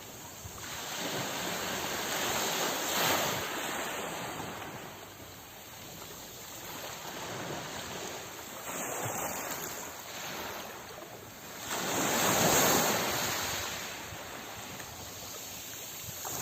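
Sea waves breaking and washing ashore in slow surges that swell and fade, the biggest swell coming about twelve seconds in.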